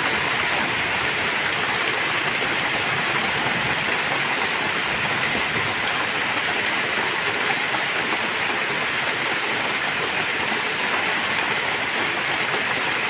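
Heavy rain pouring steadily, an even hiss with scattered drop ticks and no thunder.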